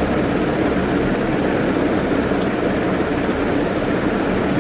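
Steady rumbling noise inside a car's cabin, even and unbroken.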